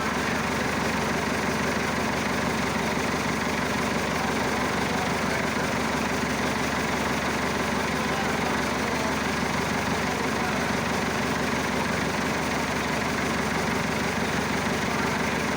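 Massey Ferguson Super 90's Perkins four-cylinder diesel engine idling steadily.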